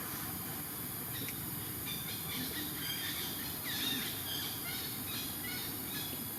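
A cluster of short, high chirping calls over a steady background hiss and rumble, thickest through the middle few seconds.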